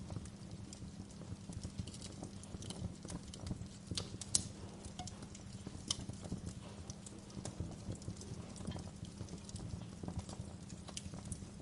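Fire crackling in a fireplace: a steady low rumble of flame with many irregular sharp pops and snaps. The two loudest pops come at about four and six seconds in.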